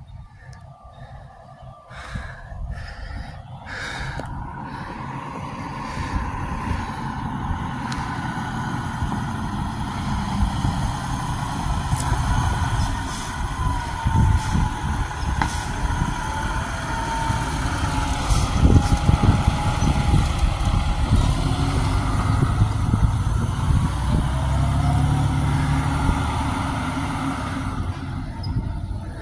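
Fire engine driving by on a call: heavy truck engine and road rumble that build up, are loudest about two-thirds of the way through, then fade.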